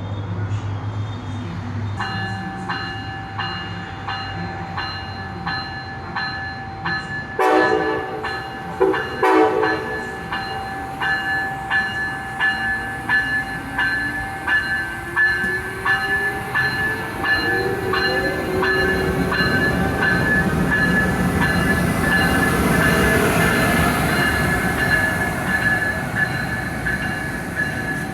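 Amtrak ACS-64 electric locomotive and train at a station: two short horn blasts about eight and nine seconds in, then the locomotive's motor whine rises in pitch as it pulls away. Steady high whining and an even clicking of wheels run throughout.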